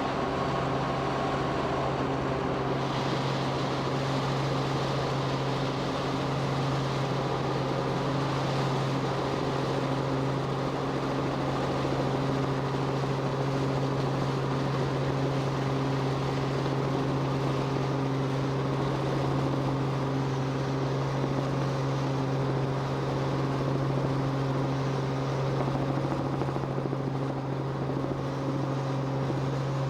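Steady drone of an aircraft in flight, one constant low hum with its overtones over a hiss.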